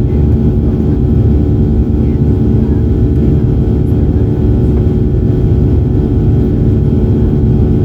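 Steady cabin noise inside a Boeing 737-800 in flight: a loud low rumble of airflow and its CFM56-7B turbofan engines, with a constant engine hum.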